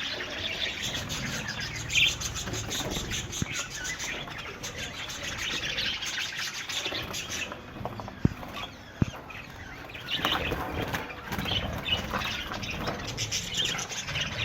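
A colony of budgerigars chirping and chattering, with wings fluttering. Two sharp clicks sound a little over halfway through.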